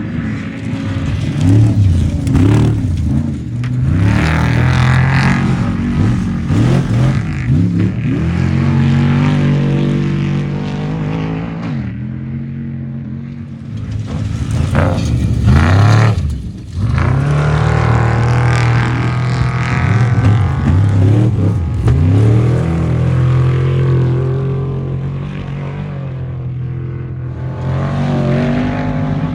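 Off-road race vehicles' engines revving hard, the pitch climbing and falling again and again as they accelerate and shift, with a brief drop in level about two-thirds of the way through.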